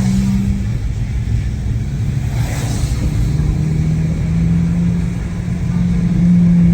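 Car engine and road noise heard from inside a moving Honda Civic Si: a steady low rumble with an engine hum that fades about half a second in and returns at a lower pitch, rising again later as the engine speed changes. A short hiss passes a couple of seconds in.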